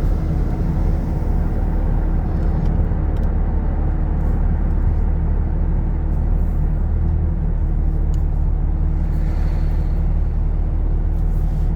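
Road noise inside a moving car: engine and tyres giving a steady low rumble with a faint steady hum.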